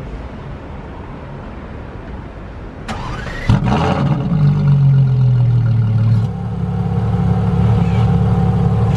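LaFerrari Aperta's V12 being started. A brief rising whirr, then the engine catches sharply about three and a half seconds in. It flares to a high idle, then settles about two seconds later to a steady, lower idle.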